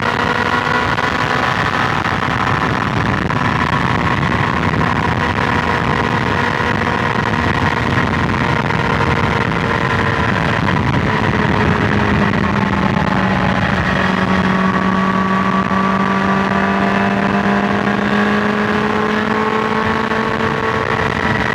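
BMW S1000XR's inline-four engine running at steady highway cruising revs, its pitch easing slightly lower about halfway through and then holding, over a constant rush of wind and road noise.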